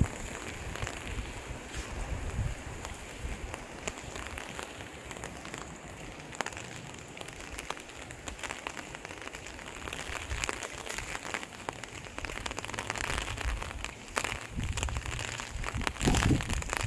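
Steady rain falling, an even hiss scattered with the ticks of single drops, with low gusts buffeting the microphone near the end.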